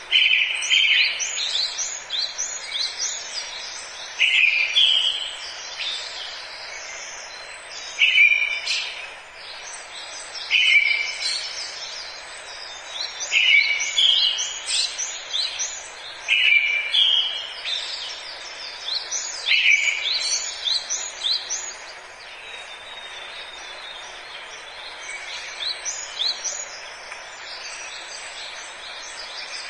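Forest birdsong: a songbird repeats a short phrase about every three seconds, a flat note followed by quick high sweeping notes, with other twittering and a steady hiss of background noise beneath. The singing eases off for a few seconds after about two-thirds of the way through, then resumes more quietly.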